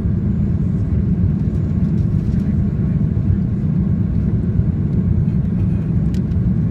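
Airliner cabin noise: a steady low rumble of jet engines and rushing air, with a faint click about six seconds in.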